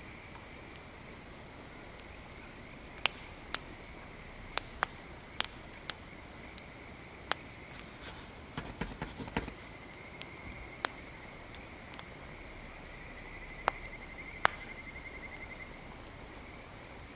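Wood fire crackling: irregular sharp pops, bunched together about nine seconds in, over a faint steady high tone.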